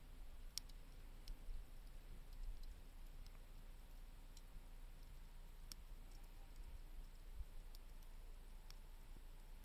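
Wood campfire burning with faint, sparse crackles: small sharp pops roughly once a second over a low steady rumble of the fire.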